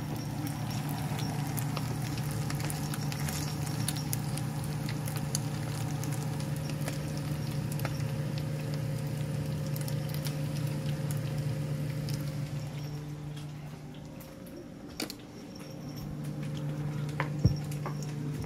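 Chicken pieces sizzling and crackling as they fry in a skillet, with fat spitting in many small ticks, over a steady low hum that drops out for a couple of seconds about three-quarters through.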